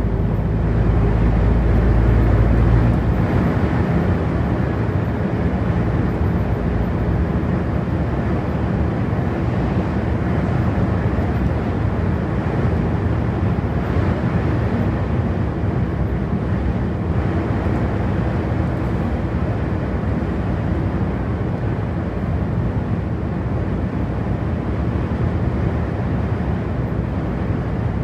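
A truck driving, engine and road noise running steadily. For the first three seconds or so a heavier low engine rumble stands out; after that the sound settles into an even tyre-and-road noise with the engine underneath.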